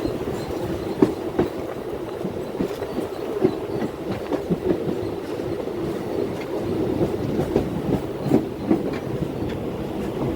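A train running along the track: a steady rumble with irregular clicks and knocks from the wheels over the rails.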